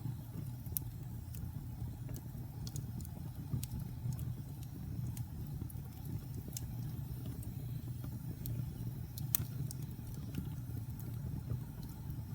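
Wood fire in a fireplace crackling, with irregular sharp pops over a steady low rumble of burning logs; the sharpest pop comes about nine seconds in.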